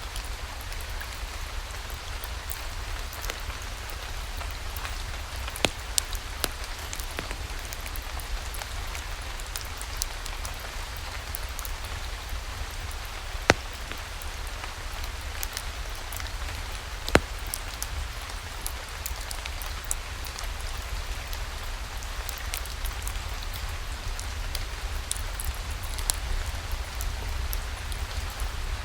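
Steady rain falling, an even hiss with a low rumble underneath, mixed with a fireplace whose occasional sharp pops and crackles stand out, the two loudest around the middle.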